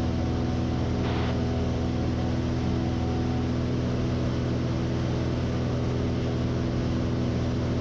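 Stinson light aircraft's piston engine running steadily in flight, heard from inside the cockpit as an even, unchanging drone.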